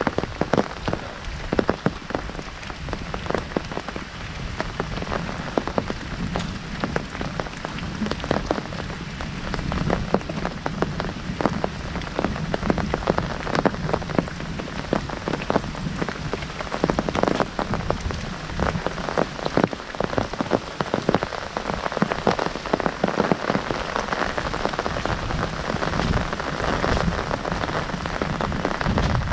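Heavy rain falling on an umbrella: a dense, irregular patter of drops striking the canopy, steady throughout.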